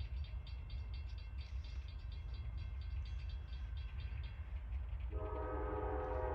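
Freight train running past with a steady deep rumble and a regular clicking of about four a second. About five seconds in, a diesel locomotive horn starts sounding a sustained chord.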